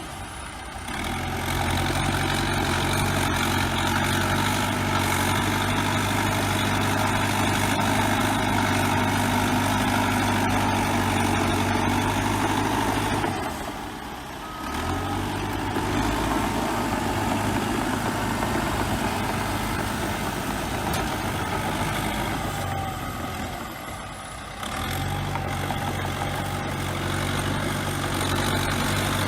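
Bulldozer's heavy diesel engine running steadily, the sound dipping briefly twice before picking up again.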